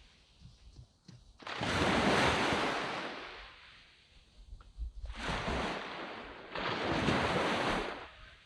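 Small waves breaking and washing up on a sandy beach: three surges of surf, the first the longest, each rising quickly and then fading.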